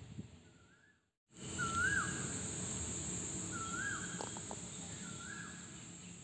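A bird repeating a short whistled call, rising then falling, about every second and a half, over a steady high-pitched insect drone. The sound cuts out completely for a moment about a second in.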